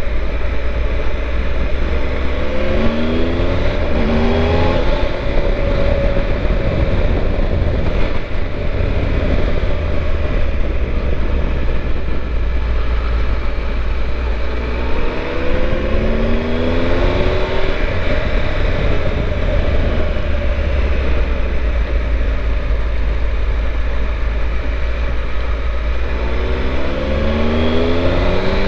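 Triumph Tiger 1200's three-cylinder engine on the move, rising in pitch as it accelerates three times: near the start, about halfway through and near the end, over a steady low rumble.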